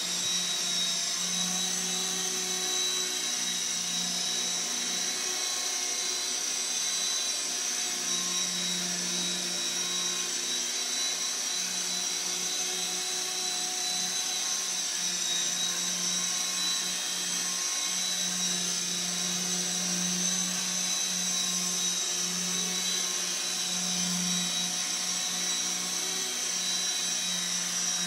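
Small electric RC helicopter hovering: a steady high-pitched whine from the motor and gears over the whirr of the rotor blades. A low rotor hum keeps swelling and fading as the throttle and pitch are worked.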